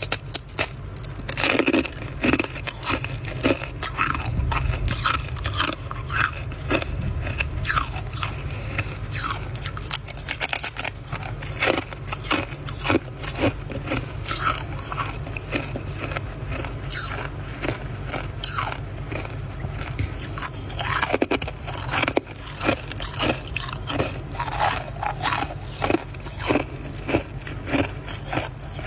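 Frost being bitten and chewed: many sharp, irregular crunches one after another.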